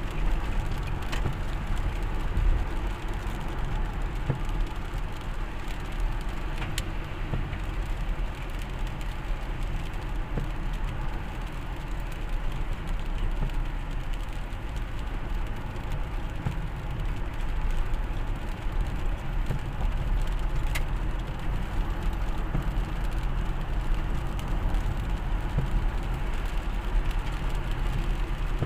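A motor vehicle running steadily on the move, with engine hum and road rumble and a few faint clicks.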